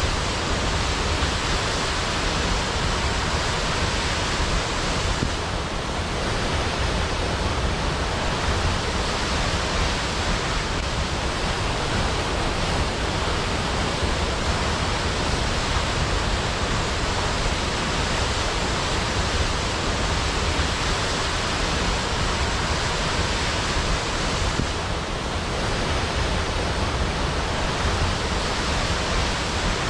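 Waterfall: falling water rushing in a steady, even roar of noise, with a slight brief dip in level twice.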